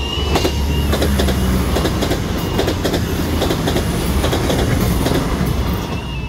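Northern Ireland Railways diesel multiple unit passing close at speed: a low engine drone and a rapid run of wheel clicks over rail joints. The level crossing's warbling warning alarm is heard at the start and again near the end.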